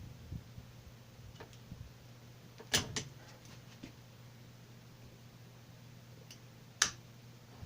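Hand work with locking pliers (vise grips) screwing a 1/4 inch all-thread rod into a tapped engine mount hole: a few light ticks and two sharp clicks about four seconds apart, over a faint steady hum.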